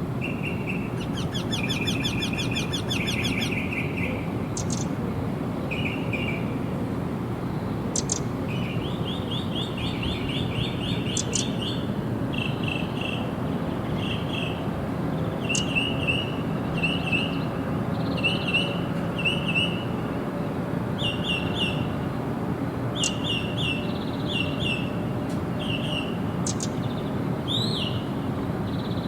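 Songbirds calling: rapid trilled phrases early on and near the middle, then short paired notes repeated about once a second. A steady low rumble runs underneath.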